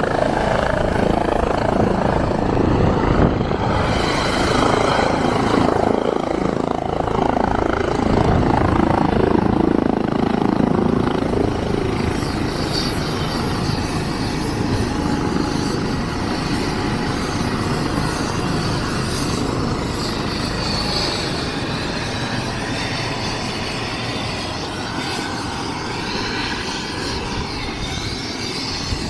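Air-ambulance helicopter running nearby, a dense steady rotor and engine noise that is loudest in the first half and slowly grows quieter.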